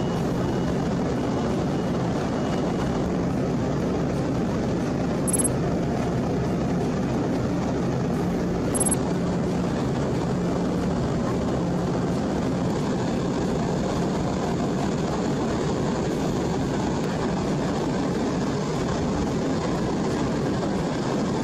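Helicopter running steadily, its rotor and engine making an even, unbroken drone.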